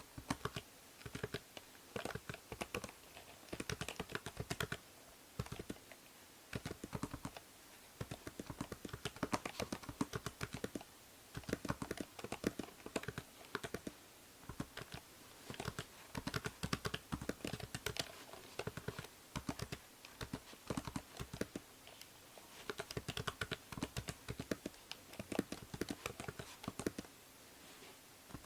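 Computer keyboard typing in quick runs of key clicks a second or two long, with short pauses between, over a steady hiss from the binaural microphone.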